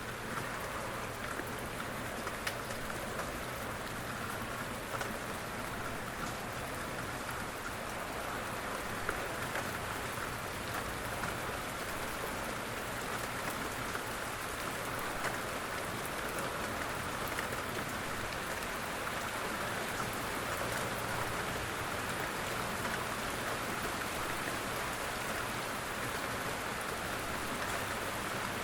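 Steady rain falling, a gentle even hiss of many drops with scattered faint individual drop ticks.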